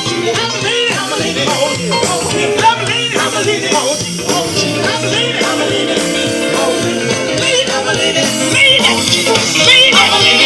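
Live band music with singing, loud and steady throughout.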